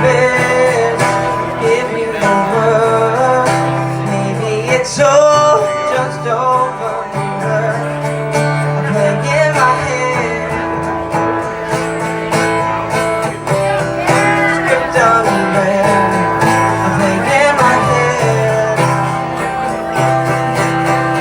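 A song performed live: a singer's voice over a strummed guitar.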